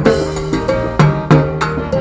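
Instrumental salsa music: sharp percussion strikes several times a second over a steady bass line and sustained pitched notes.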